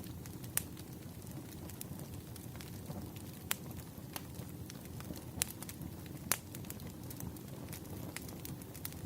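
Firewood burning in a campfire: a steady low rumble of flame with irregular sharp crackles and pops, a few of them standing out louder than the rest.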